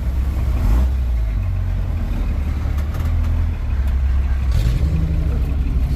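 Truck engine running at low speed over a rough trail, heard from inside the cab as a steady low drone.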